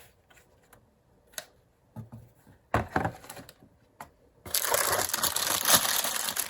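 Small knocks and clicks as a cordless phone and its box are handled. Then, from about four and a half seconds in, loud continuous rustling and crinkling of packaging.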